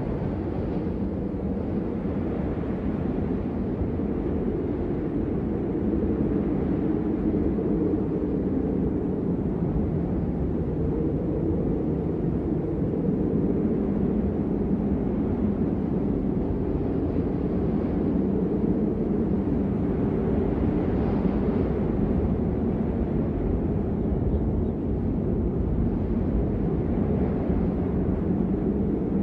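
Blizzard wind ambience: a steady low rumbling rush of wind with no pauses.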